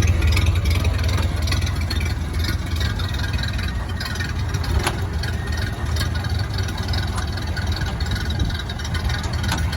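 1931 Ford Model A truck's four-cylinder flathead engine idling steadily, a low even rumble.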